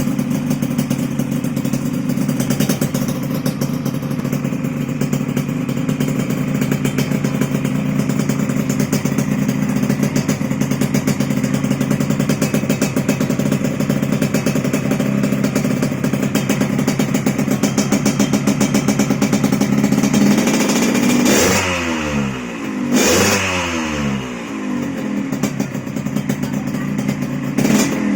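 Motorcycle fitted with an RCB competition under-slung exhaust, idling steadily, then revved twice in quick succession about three quarters of the way in before dropping back to idle.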